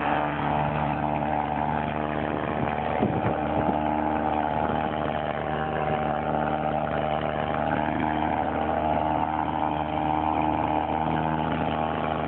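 Fumigation fogging machine's engine running steadily with an even buzzing drone.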